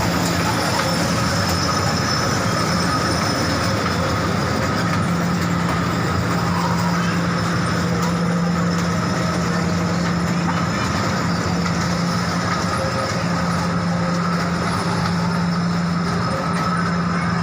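Train running, a steady rumble with a low hum.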